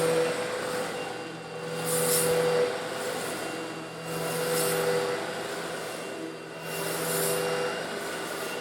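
Eureka vacuum cleaner motor running steadily while sucking up coarse stone granules, slightly larger than sand. A high hissing, rattling surge comes about every two and a half seconds as the nozzle passes over the granules.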